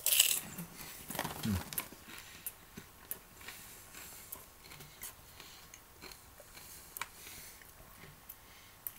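Popcorn being chewed with the mouth closed, with faint scattered small crunches and clicks. A plastic snack bag crinkles briefly at the start, the loudest sound.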